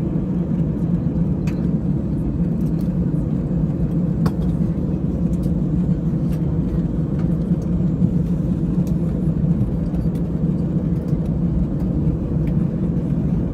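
Steady low rumble inside the cabin of an Airbus A320 taxiing in after landing, its engines at idle, with a few faint clicks and rattles.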